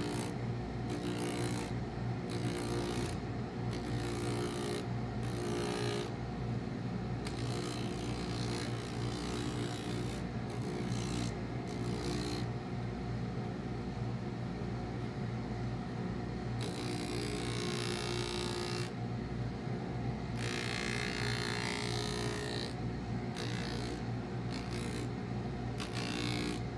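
Electric workshop machine running steadily with a low hum, while leather is pressed against it again and again, adding a scraping hiss that comes and goes every second or so and is longest and strongest in the middle stretch.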